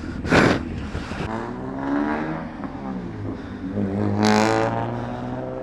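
Yamaha FZS600 Fazer's inline-four engine under way, its revs rising and dropping as it accelerates and changes gear, with two short bursts of noise about half a second and four seconds in.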